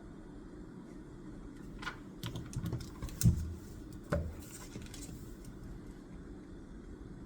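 Desk work sounds: a run of small taps and clicks over a few seconds, with two louder knocks about three and four seconds in, over a steady low room hum.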